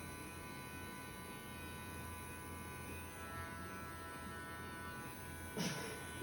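Steady electric buzzing hum of a small motor, even and unchanging, with a short sharp scratchy noise near the end.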